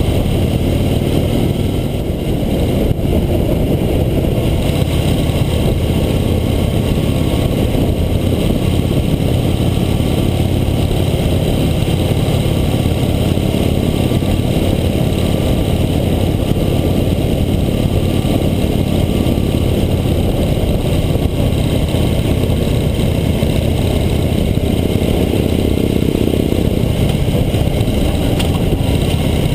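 Harley-Davidson motorcycle's V-twin engine running steadily while cruising at road speed, heard from a camera mounted on the bike.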